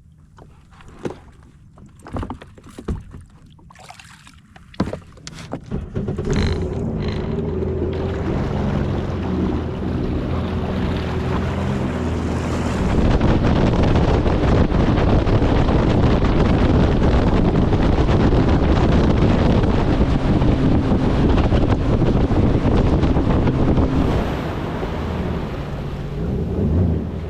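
A few knocks and clatters, then a Sea-Doo jet ski's engine starts about six seconds in and idles. From about thirteen seconds it speeds up and runs under way, with loud wind and water rush that eases slightly near the end.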